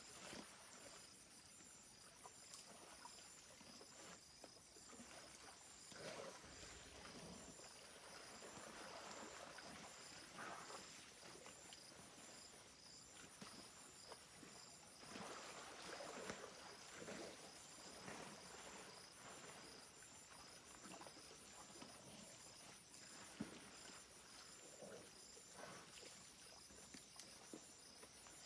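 Insects chirping steadily in fast, even pulses at several high pitches, with faint irregular rustling and water sloshing underneath.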